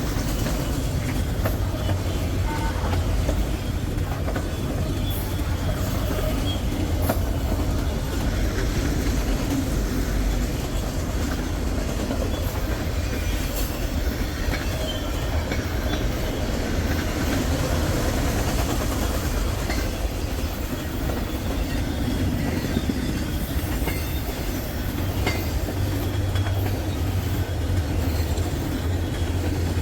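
Westbound CSX freight train rolling past at close range: a steady, loud rumble of rail cars with the wheels clicking over rail joints.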